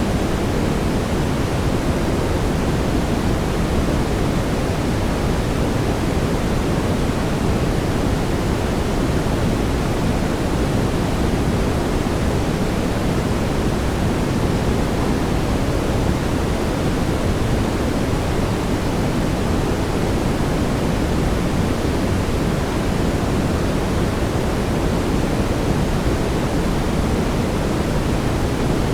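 Steady brown noise: an even, deep rushing with most of its weight in the bass and little treble, unchanging throughout.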